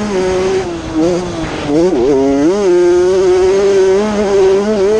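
Honda CR80 two-stroke motocross engine running at high revs as the bike is ridden. About two seconds in, the pitch dips as the throttle comes off, then climbs back and holds steady.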